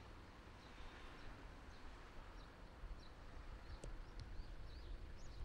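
Faint outdoor ambience: a low steady rumble with small birds chirping, the chirps coming thicker about four seconds in, along with a couple of sharp clicks.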